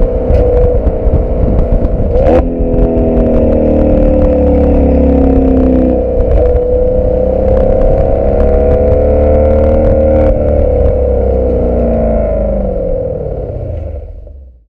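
Audi RS6 C7's twin-turbo 4.0-litre V8 running through an Akrapovic exhaust while driving, heard at the tail of the car with wind rumble on the microphone. The note jumps with a sharp crack about two seconds in, holds fairly level, then falls slowly in pitch as the car eases off and fades out near the end.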